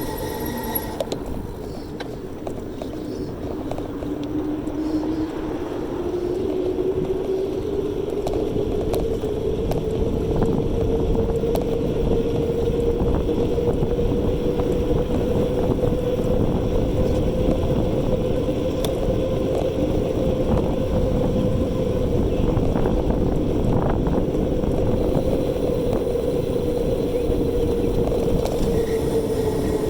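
Electric bike motor whining under a rumble of wind and tyre noise, its pitch rising as the bike speeds up over the first several seconds, holding steady, then easing down near the end.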